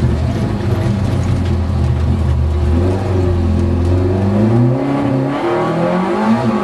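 Škoda Favorit rally car's four-cylinder engine heard from inside the cabin, pulling steadily at low revs, then revving up hard from about four and a half seconds in as the car accelerates, with a brief drop in revs near the end as it changes gear.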